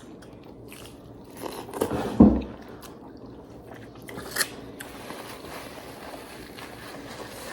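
Close-up eating sounds: chewing and biting into food, with a sharp thump about two seconds in and a few light clicks later.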